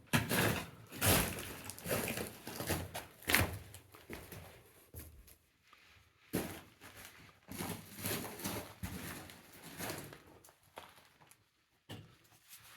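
Irregular scuffing and crunching of footsteps and movement over rock and debris in a mine tunnel, with a few sharper knocks.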